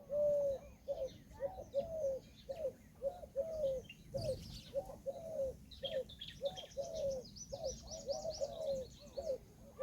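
Indian peahen giving a long run of short, arched honking calls, about two a second. Small birds chirp faintly and high-pitched in the second half.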